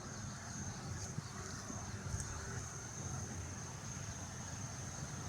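Steady high-pitched insect chirring, over a low rumble of outdoor wind and handling noise.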